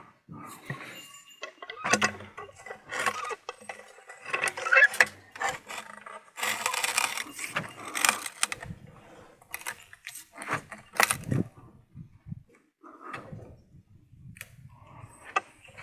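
Irregular clanks, knocks and short scrapes of metal and wood as a log and the stops on a sawmill are set up by hand.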